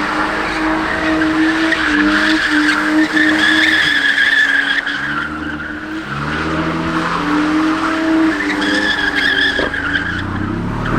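A car's tyres squealing continuously under wheelspin, with its engine held at high revs. The engine pitch dips and climbs again about halfway through.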